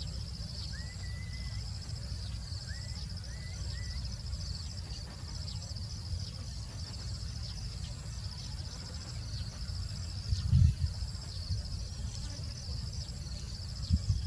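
Insects trilling in a steady, high, pulsing chorus, with a few short bird whistles in the first few seconds. A low rumble runs underneath, and two dull thumps stand out, the loudest about ten and a half seconds in and another near the end.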